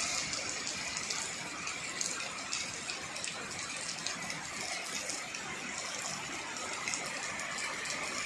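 Heavy rain falling steadily: an even hiss of rain with many small taps of drops striking a surface.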